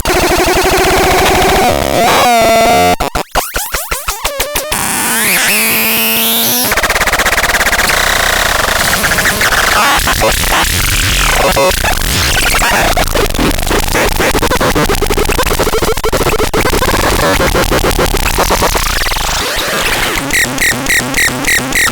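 Electronic noise instrument making harsh, glitchy synthesizer-like sound. Gliding, squealing tones and stutters give way to a dense noisy drone, which turns into a fast pulsing of about five beats a second near the end.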